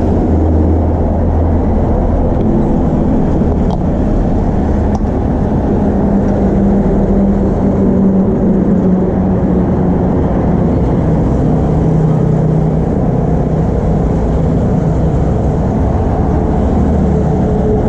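Steady low rumble of vehicle engines, with engine tones that slowly shift in pitch.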